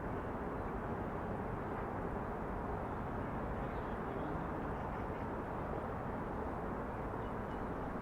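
Steady city ambience of distant traffic: an even hum of vehicles with no single event standing out.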